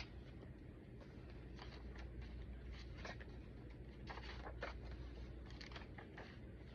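Faint paper rustling: a string of short scuffs and light taps as the pages of a thick handmade junk journal are handled and turned.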